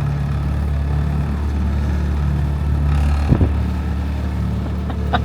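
Small boat's motor running steadily under way, with wind and water noise, and a single low thump about three seconds in.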